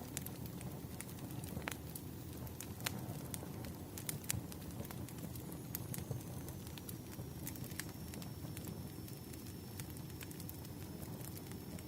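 Wood fire crackling: irregular sharp pops and snaps, several a second, over a low steady rumble. A faint high steady whine comes in about halfway through.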